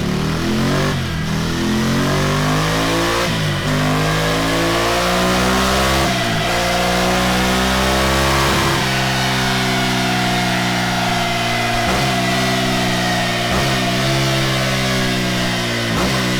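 Ducati Scrambler Desert Sled's 803 cc air-cooled L-twin running through a Delkevic oval carbon-fibre silencer. The engine revs up in pitch in several steps, each broken by a short drop, over the first nine seconds, then holds a high, nearly steady note with a few brief dips.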